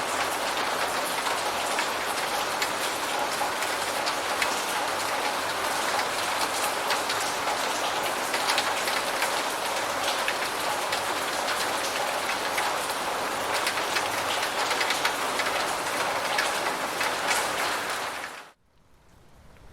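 Steady heavy rain falling on a surface: a dense hiss with scattered drop ticks. It cuts off suddenly just before the end, leaving a much quieter background.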